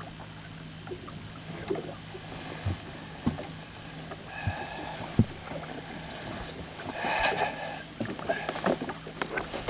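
Scattered knocks and rubbing from handling gear and a fish in a small fishing boat, over a steady low hum. There are two short noisy scuffles, one near the middle and one about three-quarters of the way in.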